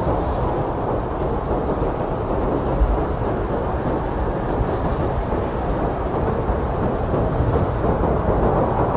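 Blizzard wind blowing steadily: a dense rushing noise with a deep rumble underneath, holding an even level throughout.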